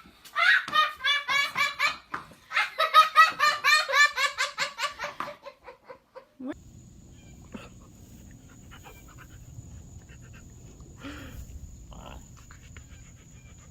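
A young child laughing hard in quick rhythmic bursts for about six seconds. It then cuts off to a quieter stretch with a low steady hum, a faint high whine and a few soft clicks.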